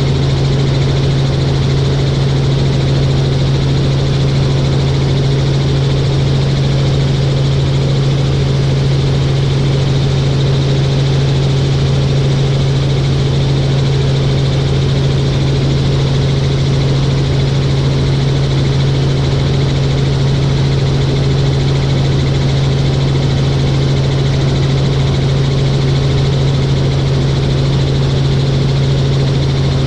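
Helicopter in flight, heard from on board: a loud, steady drone of engine and rotor with a strong low hum.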